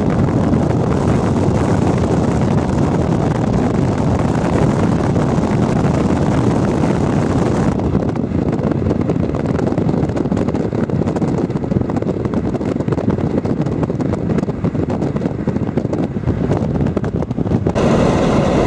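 Loud wind rumbling and buffeting against a camcorder microphone, in gusts ahead of a severe thunderstorm. The higher hiss drops away about eight seconds in.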